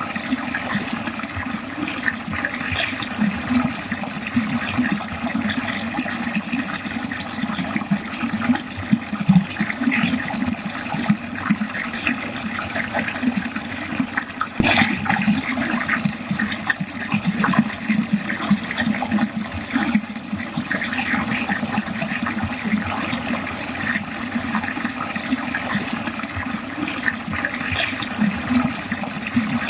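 Water running steadily down a drain, gurgling and splashing continuously, with one sharper splash about halfway through.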